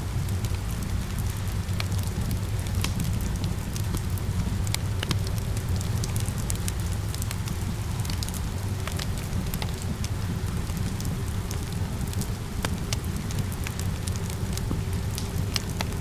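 Wood fire crackling, with frequent sharp irregular pops over a steady low rumble of the flames, mixed with the even hiss of falling rain.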